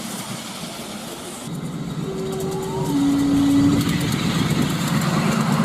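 A train growing louder as it draws near, with a two-note signal sounded about two seconds in: a higher held note, then a lower one.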